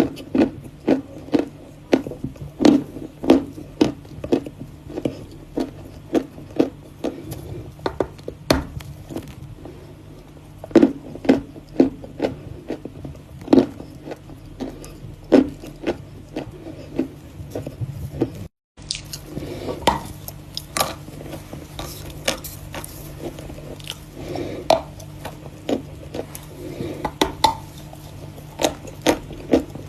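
Close-up crunching of chalk being bitten and chewed: a long run of sharp, crisp crunches, one or two a second, broken by a brief cut a little past the middle.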